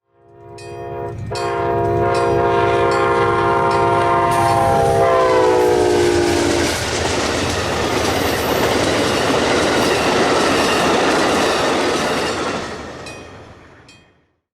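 Freight diesel locomotive horn blowing one long chord, with a brief break about a second in; its pitch falls as the locomotive passes. Then the steady noise of the train going by, fading out near the end.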